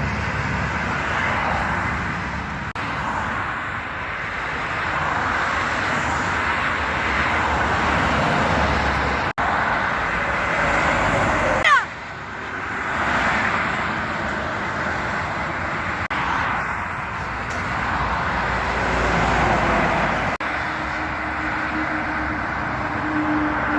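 Road traffic passing: a steady rush of tyre and engine noise that swells and fades as vehicles go by, broken by several sudden cuts. A low steady engine hum comes in near the end.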